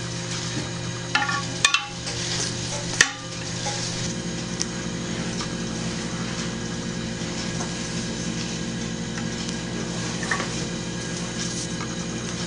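A homemade bird trap being set by hand: its wire loop, trigger and fiberglass dowel rustling and scraping, with a couple of sharp clicks in the first three seconds. A steady low hum runs underneath from about four seconds in.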